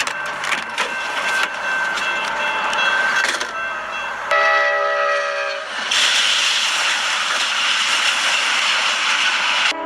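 Scattered clicks over a steady high tone, then a loud horn blast about four seconds in that lasts about a second and a half, followed by a loud, steady rushing noise that cuts off just before the end.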